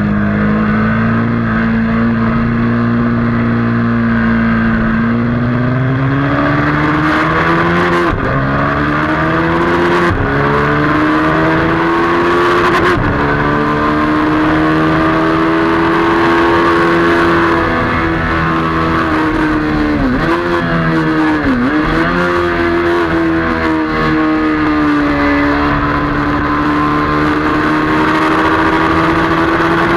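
Motorcycle engine at track speed heard from an onboard camera. Its pitch climbs with short breaks about 8, 10 and 13 seconds in as it shifts up, then holds a steady high note, with two quick drops and recoveries around 20 to 22 seconds in.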